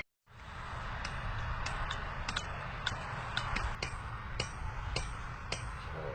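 Campfire burning: a steady crackling hiss with sharp pops about every half-second.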